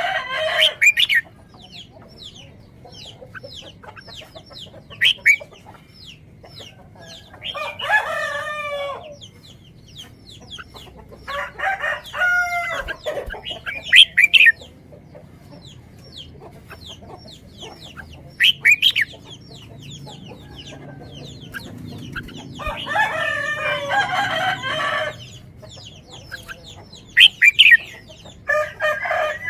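Chickens calling: several drawn-out calls of one to two seconds each, with short high chirps in between.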